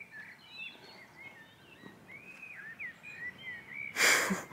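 A songbird sings a continuous run of quick chirps and warbling phrases. Near the end comes a loud, brief rustling burst of noise.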